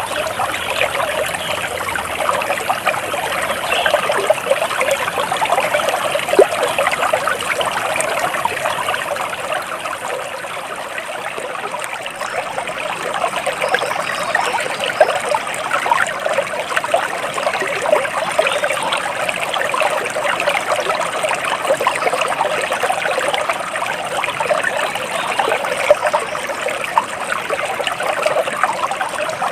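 Water trickling and babbling steadily in a small stream.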